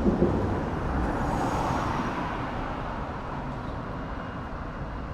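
Road traffic: a passing vehicle's noise fading away steadily, over a low background rumble of traffic.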